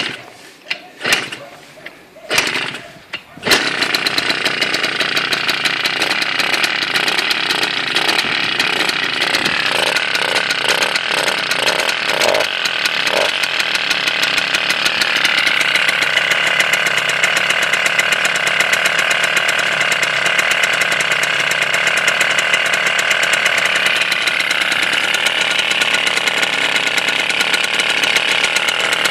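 Malaguti 50 scooter engine started from cold: a few brief bursts, then it catches about three and a half seconds in and runs on steadily, its pitch rising a little partway through.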